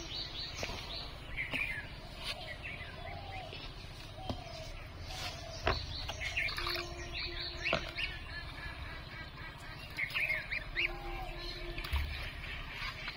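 Birds chirping and peeping in short bursts, about three clusters of quick high notes, with a few sharp clicks in between.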